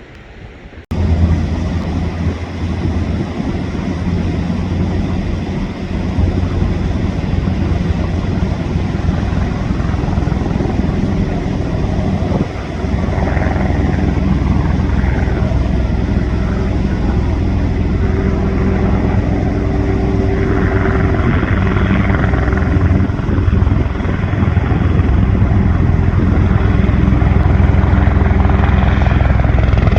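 Black Hawk helicopters flying low, a steady low rotor and engine noise. It cuts in suddenly about a second in and grows louder toward the end.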